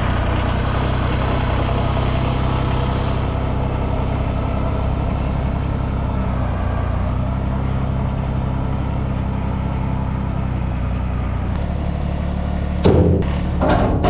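An engine running steadily at an even pitch, then a few sharp knocks near the end.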